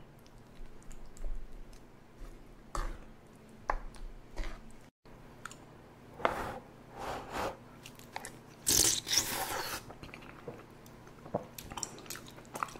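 Close-up eating sounds of spicy tteokbokki: soft wet chewing of chewy rice cakes in thick sauce, with a few short clicks of a wooden spoon against the pan. About nine seconds in comes a louder breathy sound lasting about a second.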